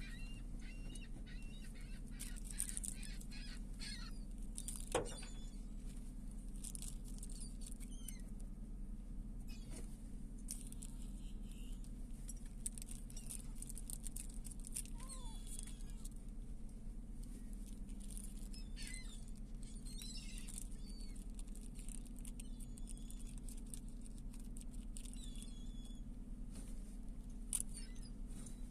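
Seagulls calling now and then, short scattered calls, over a steady low hum, with one sharp tap about five seconds in.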